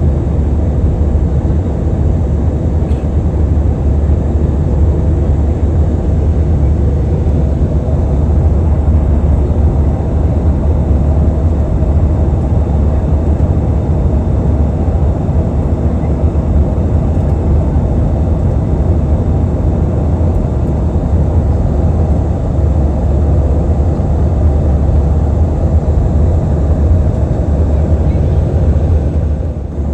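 Airliner cabin noise: a steady, loud, low rumble of engines and airflow that dips briefly near the end.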